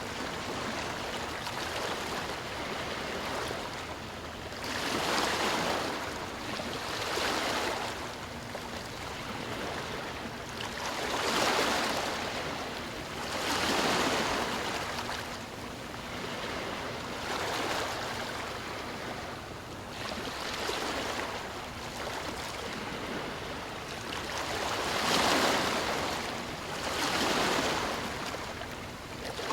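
Ocean waves breaking and washing on the shore, in swells every few seconds over a steady surf hiss; the loudest waves break about 11 seconds in and again about 25 seconds in.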